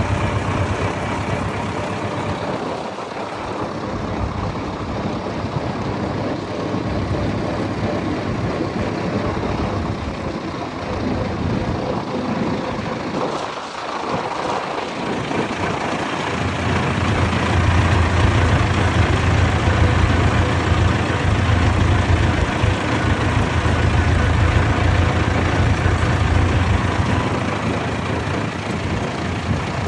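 Vintage tractor engines running, with a louder, deeper engine note building up from about halfway through.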